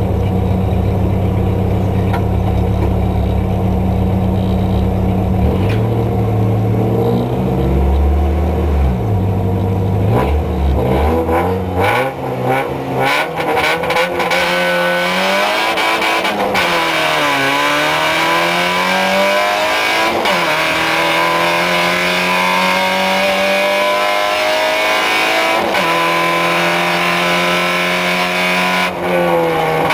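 Fiat Seicento rally car's engine heard from inside the cabin. It idles and is held at varying revs at the start line, then about halfway through the car launches and accelerates hard, the pitch climbing and dropping back with each gear change.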